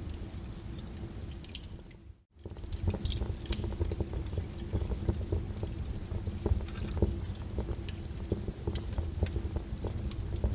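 Wood fire crackling in a fireplace: a steady low rumble of flames with many small, irregular pops and snaps. The sound briefly fades out and comes back about two seconds in.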